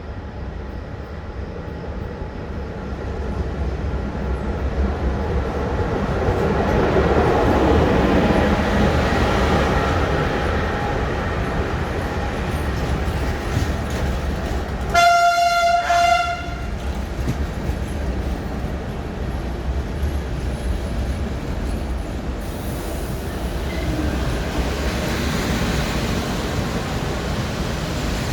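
Passenger train pulling into a station: a steady rumble that swells and then eases, with one horn blast of about a second and a half about halfway through.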